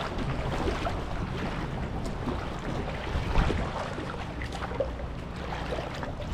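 Shallow water sloshing and splashing around a grounded boat, with a low rumble of wind on the microphone and one louder thump about three and a half seconds in.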